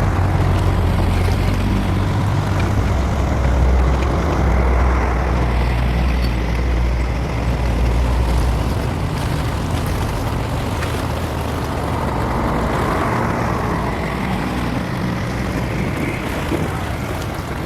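Low, steady engine rumble of a passing vessel over a wash of wind and water noise; the rumble is heavy for the first half, then eases off.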